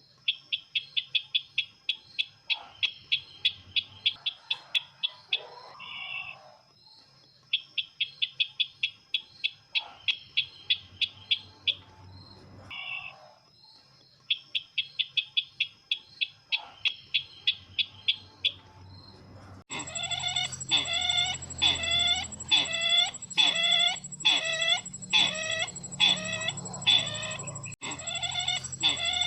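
Recorded call of the sisintar ladang bird, played as a trapping lure: fast trains of bright chirps, about eight a second, each train lasting several seconds and separated by short lower notes. About twenty seconds in, the sound switches abruptly to louder repeated call notes, roughly one and a half a second, over a steady high whine.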